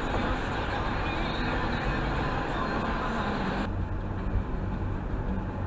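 Steady road and engine noise heard inside a moving car's cabin on a snowy highway: a low rumble under a hiss, and the brighter part of the hiss cuts off suddenly about two-thirds of the way through.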